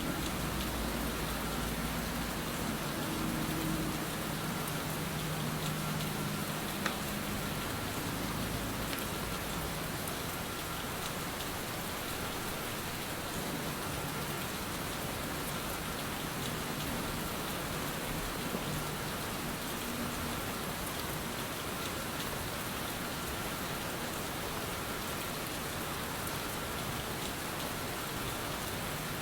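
Steady rain falling on a surface, an even patter with no let-up.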